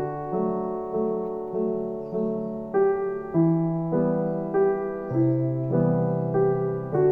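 Background piano music: a gentle melody of held notes, a new note about every half second.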